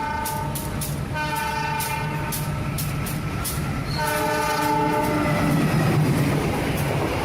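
Train horn sounding in long blasts, one about a second in and another about four seconds in, over a steady clickety-clack of wheels, about three clicks a second, and a low rumble.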